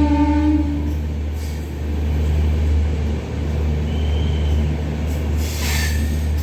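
Passenger train running with a steady low rumble, heard from a coach. A horn sounds for about a second at the start, a brief high squeal comes near four seconds in, and a short hissing burst follows near the end.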